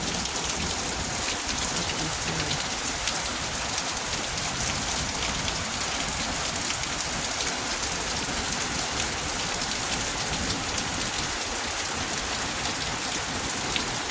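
Steady rain falling: an even hiss with many small drop taps, holding at a constant level.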